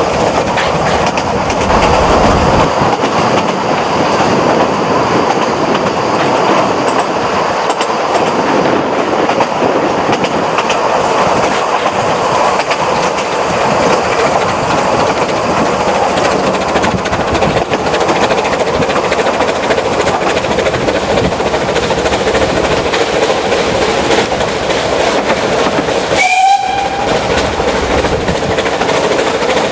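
Narrow-gauge steam train on the move: the steady loud rumble and rattle of the carriages running on the rails. Near the end there is one brief high-pitched squeal.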